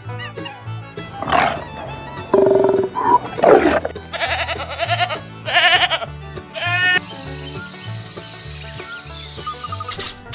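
A series of animal calls, several short loud cries in the first two-thirds, over background music with a steady beat.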